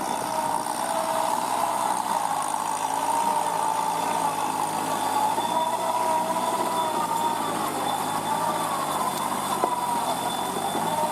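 Kubota NeoStar B2441 mini tractor's three-cylinder diesel engine running steadily, its pitch drifting slightly up and down.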